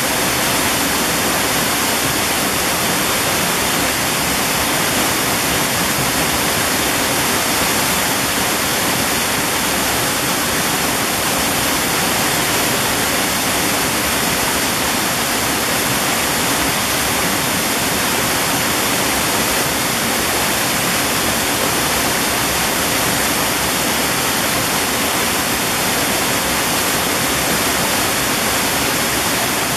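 Mountain valley stream rushing steadily over rocks, a constant even splashing hiss with no pauses.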